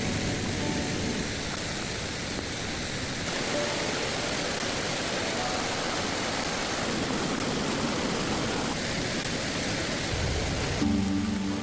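Steady rush of a waterfall, its tone shifting slightly twice. Music comes in near the end.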